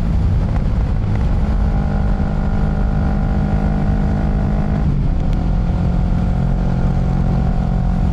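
Kawasaki Ninja 650's parallel-twin engine running steadily under way, with wind and road rush; the engine note steps down slightly about five seconds in.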